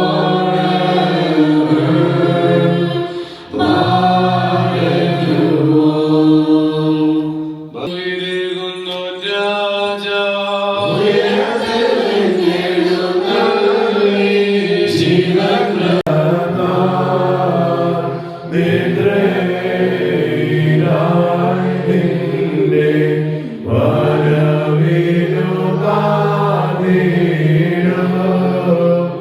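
Voices chanting an Orthodox liturgical hymn together in long sung phrases, broken by several brief pauses.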